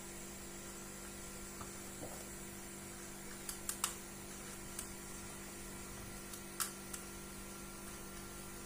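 Steady low electrical hum with a few small sharp clicks: three close together about halfway in and one more near the end.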